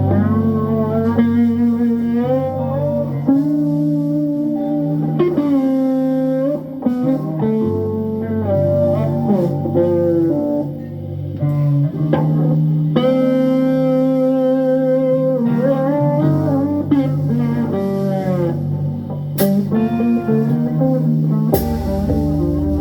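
Live band playing an instrumental passage: a guitar carries the lead with long held notes that bend and waver, over a steady bass line. A few sharp drum or cymbal hits come in near the end.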